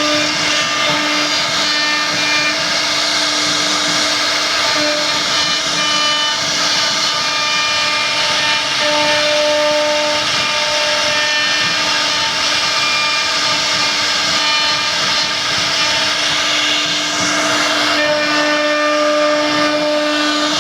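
CNC machine running, a steady machine whine of several fixed tones over a loud hiss.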